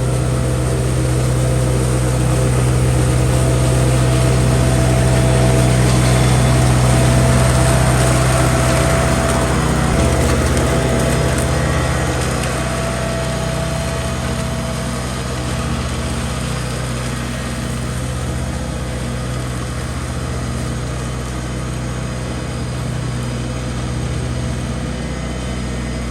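Lawn mower's small petrol engine running steadily under load, growing louder for the first several seconds and then slowly fading a little.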